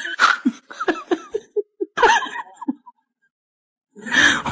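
A person laughing in a rapid run of short bursts, breaking off about three seconds in; laughter and voices start again near the end.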